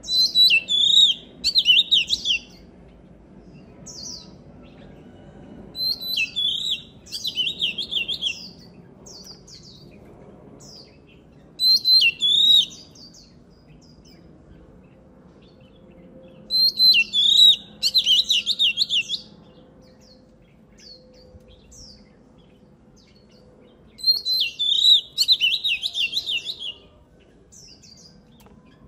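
Oriental magpie-robin singing: five loud bursts of rapid, varied whistled notes, each two to three seconds long and coming about every six seconds, with short single calls between them.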